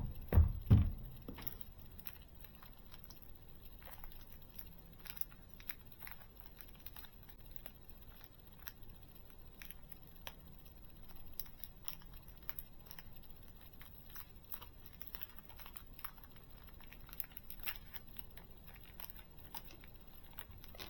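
A couple of knocks in the first second, then faint, irregular clicks and taps from handling a small screwdriver, its bits and small model parts.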